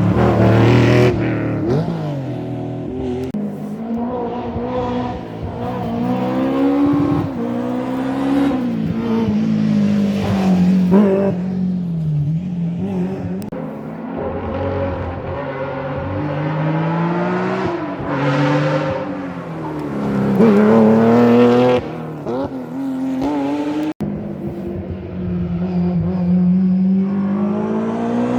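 Historic rally cars at full speed on a stage, engines revving hard and dropping through gear changes as they pass, with an abrupt cut to another car about three-quarters of the way in.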